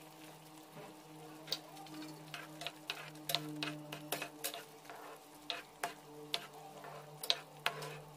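Steel ladle stirring thick kheer in a pan, knocking and scraping against the pan in irregular clicks, over a faint steady hum.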